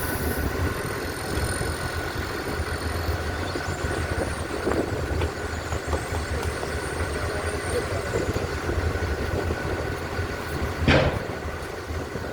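Steady running of an engine or similar machinery, with a low hum and a faint steady whine, and a single short knock about eleven seconds in.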